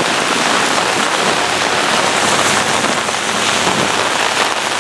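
Heavy, wind-driven rain pouring and pelting down in a severe thunderstorm, a loud steady hiss.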